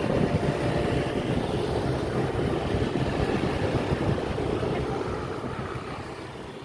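Steady outdoor rumble with wind on the microphone, fading away over the last couple of seconds.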